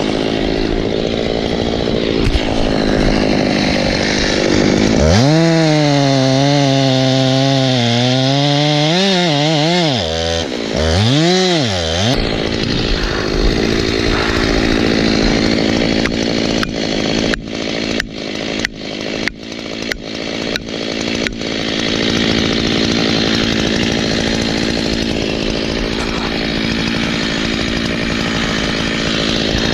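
Two-stroke chainsaw running hard while cutting through a large ash trunk. Its pitch wavers up and down under load, and about halfway through there is a run of short throttle bursts.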